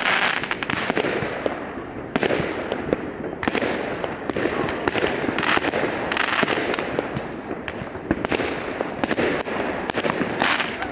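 New Year fireworks salute going off: a dense run of sharp bangs and crackles, bursting in clusters every second or two.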